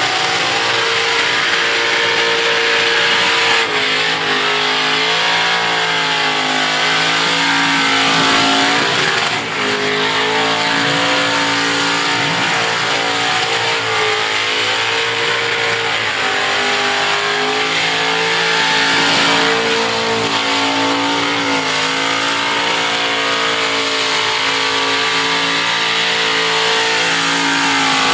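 A car engine held at high revs through a burnout, its note wavering and dropping briefly every few seconds as the throttle is worked. Underneath is a steady hiss of spinning rear tyres.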